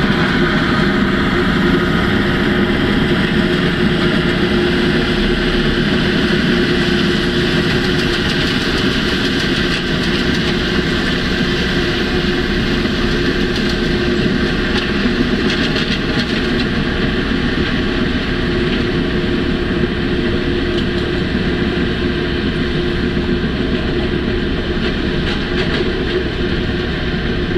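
Large diesel mining machinery running steadily, a constant engine drone with a steady hum.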